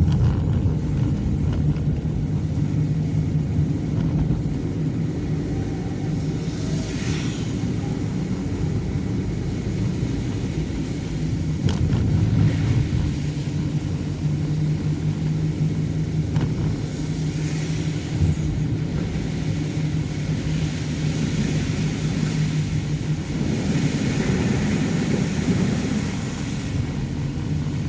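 Car driving on a rain-wet road: a steady engine hum under a hiss of water from the tyres, with spray swelling several times.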